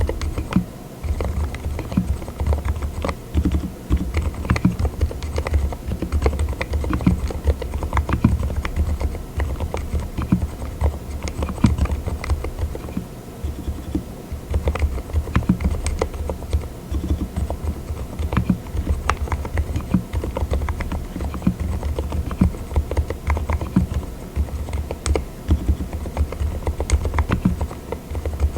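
Continuous typing on a mechanical keyboard fitted with Cotton Candy silent linear switches (36 gf): a steady, dense run of keystrokes.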